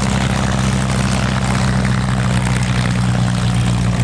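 P-51D Mustangs' Packard Merlin V12 engines running at low power as the fighters taxi, a loud, steady drone that holds one pitch throughout.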